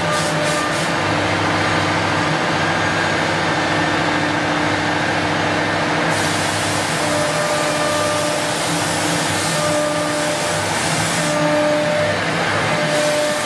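Two-spindle CNC wood router running: a steady spindle whine over the hiss of cutting. The hiss grows brighter about six seconds in.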